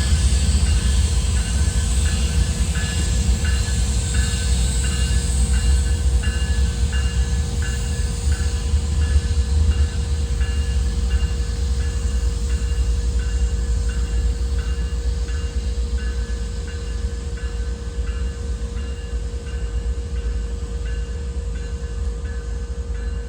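A train running through the station: a heavy steady low rumble with a light, regular tick about every two-thirds of a second, slowly fading.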